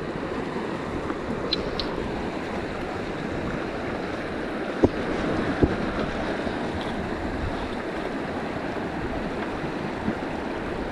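River water rushing steadily, with two short sharp clicks a little under a second apart about halfway through.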